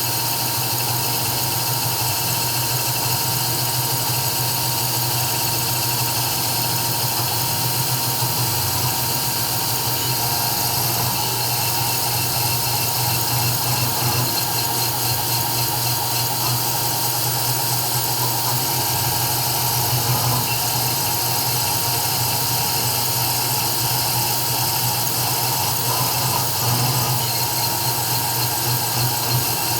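CNC 3040 desktop router running an engraving job: a steady high-pitched whine over a low hum, with small swells in level but no stops.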